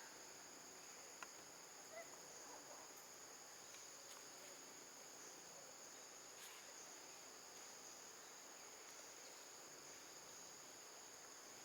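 Faint steady chorus of insects trilling, high-pitched and unbroken, with a few soft clicks.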